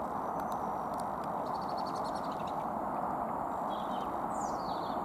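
Small birds chirping over a steady rushing background noise: a few quick high chirps, a rapid trill about two seconds in, and a falling chirp near the end.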